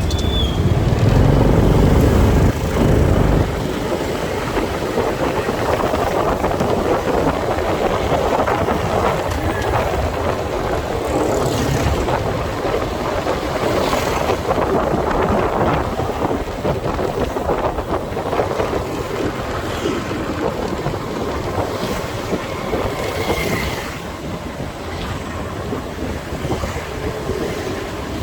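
Motorcycle riding through city traffic: steady engine and road noise with wind buffeting the microphone, louder for the first few seconds, with a few brief higher-pitched sounds from the traffic.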